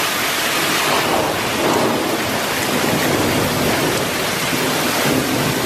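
Torrential rain pouring down in waves: a loud, steady rush of water.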